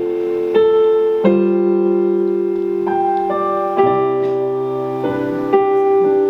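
Keyboard playing slow, held piano chords, a new chord struck every second or so, with no singing.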